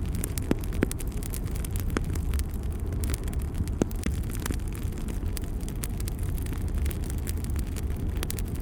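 Fire burning in a fireplace: irregular sharp crackles and pops over a steady low rumble of flames.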